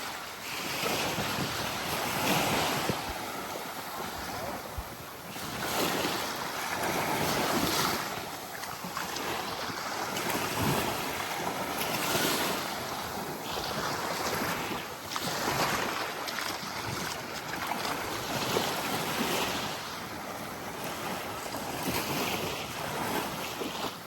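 Small waves lapping and washing onto a sandy beach, swelling and easing every few seconds, with breeze buffeting the microphone.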